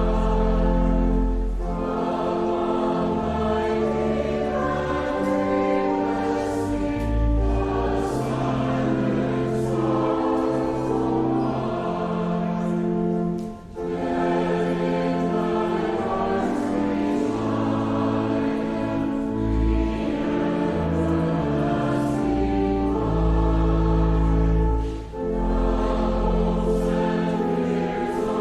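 A church choir singing with instrumental accompaniment in sustained chords over deep bass notes, with two brief breaks between phrases.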